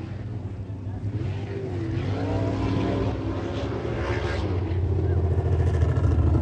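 Sprint car engine running around a dirt track, its pitch rising and falling as it goes through the turns and down the straights, gradually getting louder.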